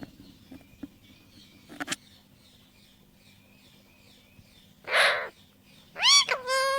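Pet talking parrot giving a short harsh squawk, then about a second later a longer call that rises and then holds one pitch.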